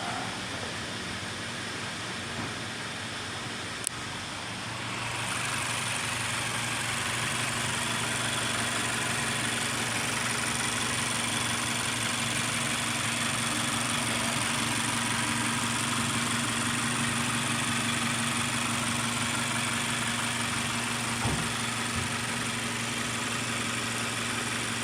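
Mazda 3 engine idling steadily, getting louder and brighter about five seconds in, with a single sharp click shortly before.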